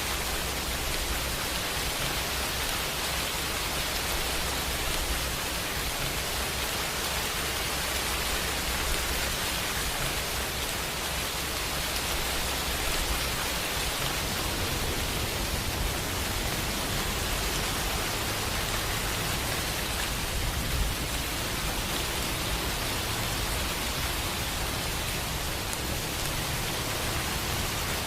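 Steady rainfall, an even hiss of many drops with no pauses, and a low rumble beneath it that grows stronger about halfway through.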